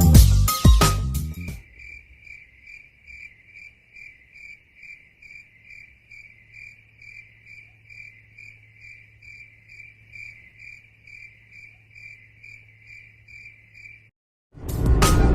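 A cricket chirping in a steady, even rhythm, about two and a half chirps a second, over a faint low hum. It takes over as the music drops out about a second and a half in, and it stops suddenly near the end.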